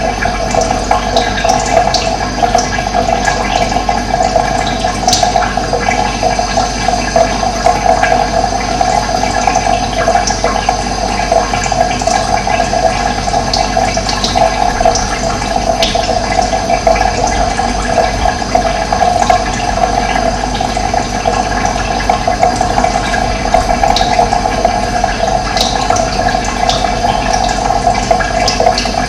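Running water flowing steadily, a continuous rushing with its strongest part in the middle range, and a few brief high chirps from birds scattered through it.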